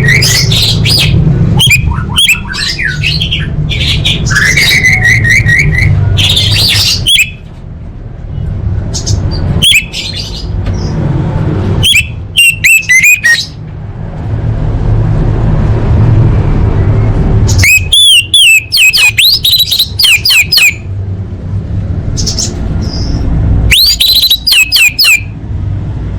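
Female orange-headed thrush calling to a male in about six bursts of rapid, chattering notes, with pauses of a few seconds between them. A steady low hum runs underneath.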